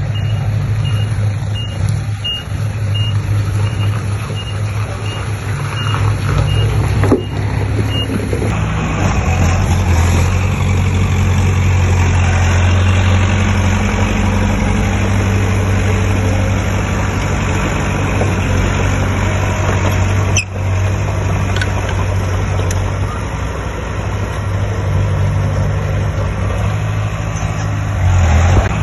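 Heavy diesel engine of construction machinery running steadily, with a reversing alarm beeping about one and a half times a second for the first eight seconds. The engine gets louder after the beeping stops.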